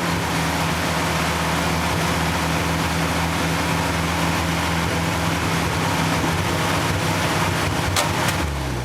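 Old Land Rover's petrol engine running steadily on its first start after standing for about six months.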